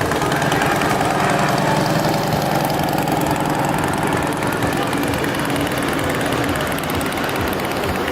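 Vehicle engine idling steadily and loudly.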